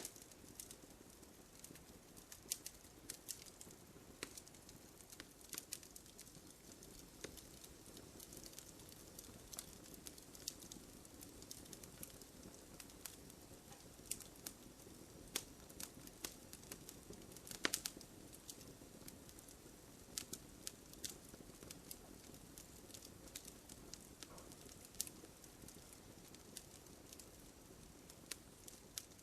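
Wood fire crackling softly: scattered sharp pops and snaps over a faint steady hiss of burning wood, with one louder pop a little past halfway.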